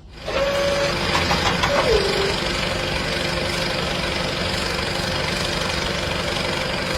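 A small engine running steadily at an even speed, starting abruptly.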